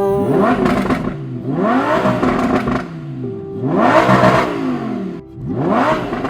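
Lamborghini Huracán's V10 engine revved through a custom Nerol exhaust system, rising and falling in pitch four times.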